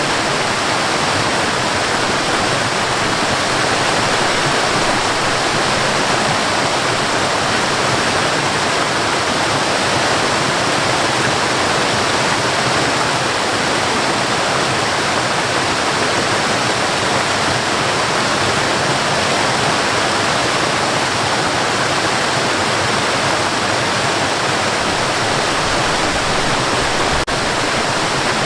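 Waterfall: a steady, dense rush of falling water with no change in level, apart from a brief dip near the end.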